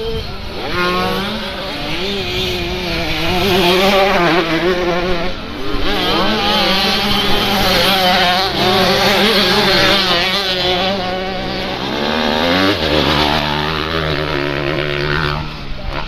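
Several motocross bike engines revving, their pitches rising and falling and overlapping.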